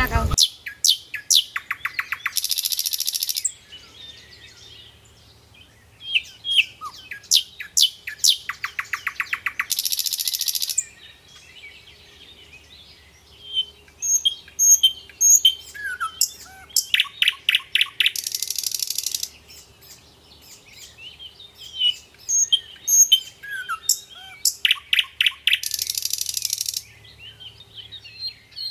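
Birds chirping and calling, with short chirps and whistled glides. About every seven to eight seconds the same sequence comes round: a fast rattling trill, then about a second of buzzy hiss.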